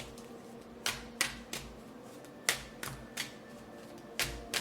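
Tarot cards being handled: a series of sharp clicks in loose groups of two or three, as the cards are snapped or tapped.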